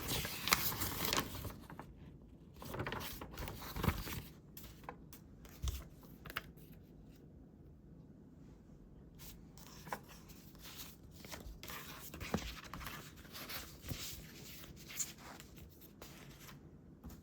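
Paper being handled for scrapbooking: a burst of rustling and tearing in the first couple of seconds and again a few seconds in, then scattered light taps and small rustles.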